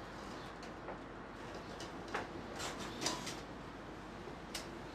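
A few faint, short clicks and light knocks over a low steady background hum.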